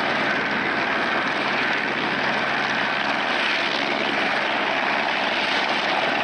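A single-engine turbine helicopter of the Eurocopter AS350 Écureuil type hovering: a steady rush of rotor and engine noise with a faint high whine held throughout.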